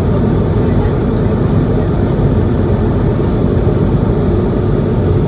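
Steady cabin noise of an Airbus A220-100 in flight: the even rush of airflow and its Pratt & Whitney PW1500G geared turbofan engines, heard from an economy seat, with most of the sound in the low range.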